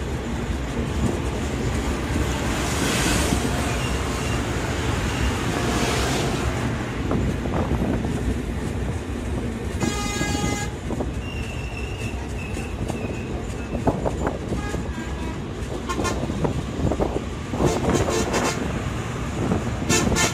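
Passenger train running at speed, a continuous rumble and rush of wheels on rail heard from a carriage window. A horn sounds once for under a second about halfway through, and a run of clattering clicks comes near the end.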